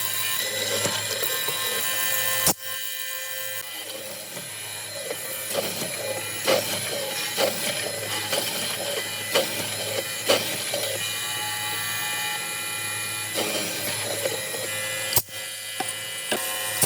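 A small electric power tool running on wood, a steady high whine with knocks and clatter. The sound changes abruptly twice.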